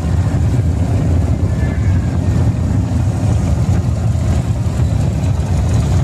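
A convoy of many motorcycles riding past, their engines a steady, continuous low drone with no let-up.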